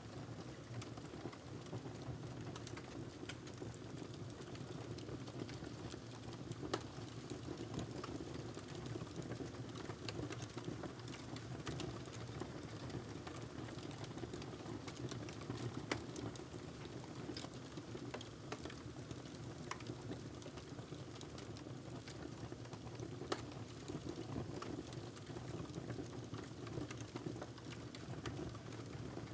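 Wood fire burning in a fireplace: a steady low rush of flames with many small crackles and a few sharper pops.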